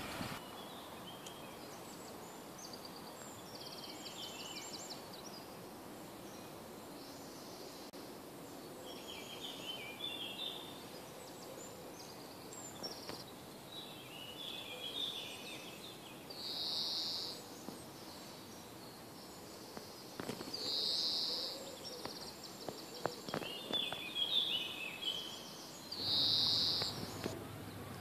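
Songbirds singing outdoors: short phrases of chirps and trills repeated every few seconds, with three buzzy notes about a second long in the second half, over a steady background hiss.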